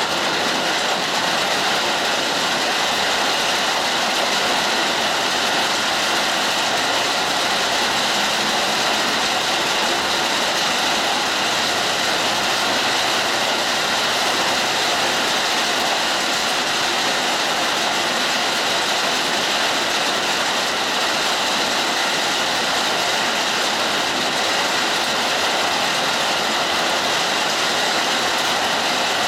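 Hard rain falling steadily: a dense, even hiss that does not let up.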